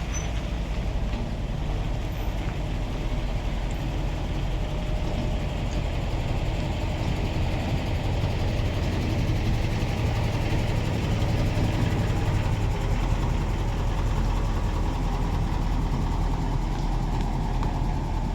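Heavy truck's diesel engine running steadily with a low rumble, slightly louder for a few seconds in the middle.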